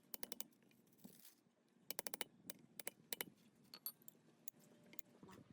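Light metallic clicks and clinks in quick runs of several, then single clicks, from hand work on an electric motor's parts.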